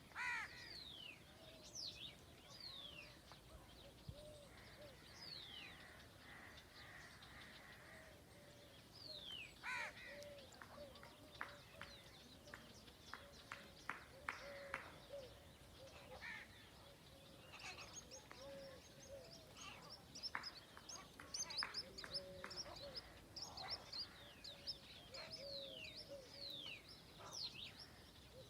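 Several wild birds calling: many short downward-sweeping whistles and chirps, with a few louder calls and a low note repeated every second or so throughout.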